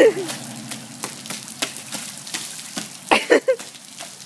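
Steady rain hiss on wet pavement, with footsteps splashing through puddles in rain boots and scattered sharp ticks of raindrops striking the phone. Brief voice sounds come right at the start and again about three seconds in.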